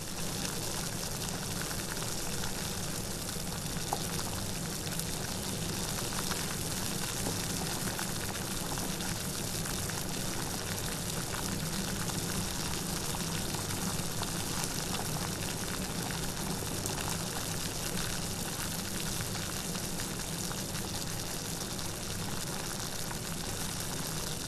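Rain falling steadily: an even, dense hiss with fine patter of individual drops.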